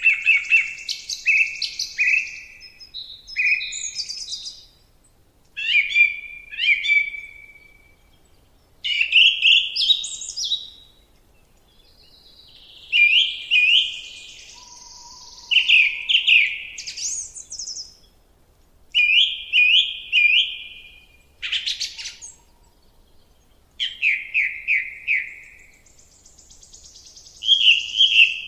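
A songbird singing: short phrases of quick repeated chirping notes, one every few seconds with brief pauses between them.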